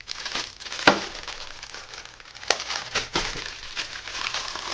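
Plastic bag crinkling as it is handled, with a few sharp clicks and snaps along the way.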